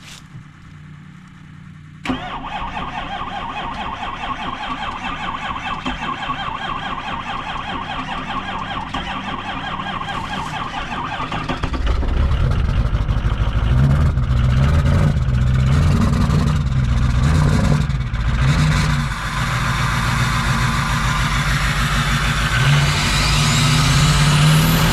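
Cold start of a 2006 Ford F250's 6.0 Power Stroke V8 diesel. The starter cranks for about ten seconds, then the engine catches and runs, much louder and deeper.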